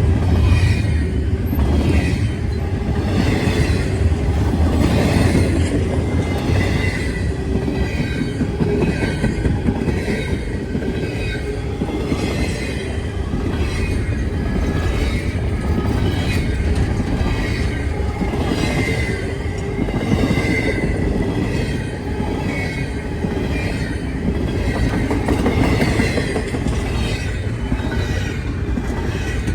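Train cars rolling past, with a steady low rumble, a regular clickety-clack of wheels over rail joints, and a faint high wheel squeal.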